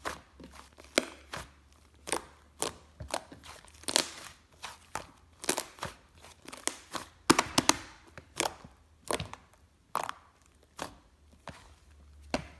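Hands playing with slime: irregular sticky clicks and pops as it is pressed, squished and stretched, one to three a second.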